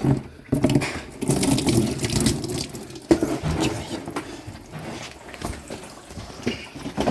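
Coolant splashing and gurgling out of a loosened hose as the Mini R53's cooling system is drained, irregular, with scattered clicks and knocks and one sharper knock about three seconds in.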